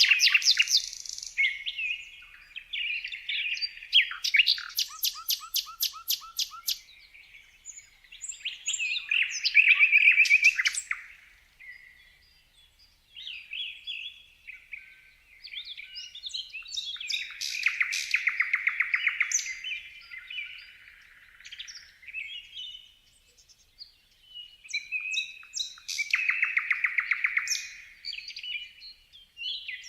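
Several songbirds chirping and singing over one another, with mixed whistled calls and bursts of fast trills about five seconds in, midway and near the end.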